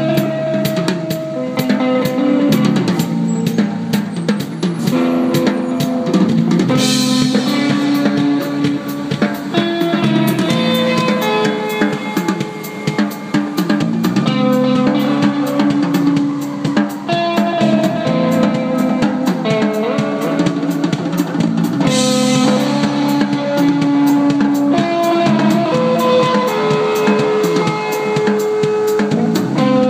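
A band playing rock music: a full drum kit with kick, snare and rimshots driving a steady beat under guitar and bass lines, with cymbal crashes twice.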